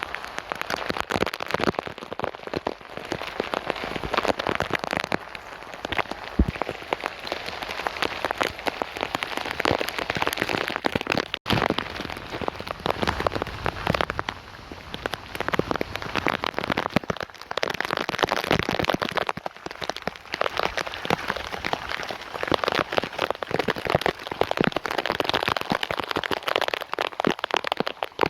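Rain falling onto a hard surface: a dense crackle of drops that swells and eases in waves, with a momentary break about eleven seconds in.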